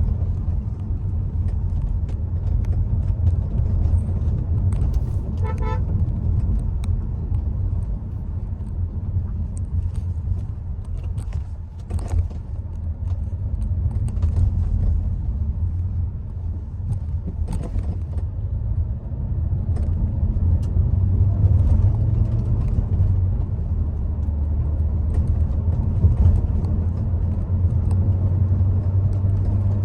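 Hyundai Creta driving on a wet road: a steady low road and engine rumble with scattered faint ticks. A car horn beeps briefly in short pulses about five seconds in.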